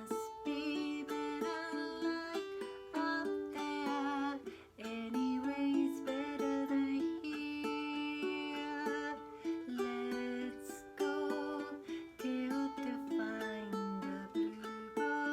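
Ukulele strummed in a steady rhythm, accompanying a sung melody.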